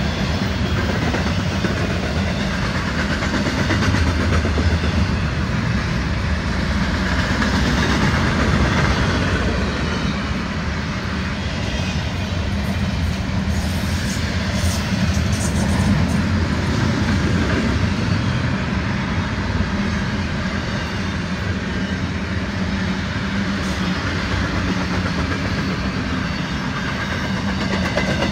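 Florida East Coast Railway freight train's double-stack intermodal container cars rolling past at speed: a steady rumble and rattle of steel wheels on the rails.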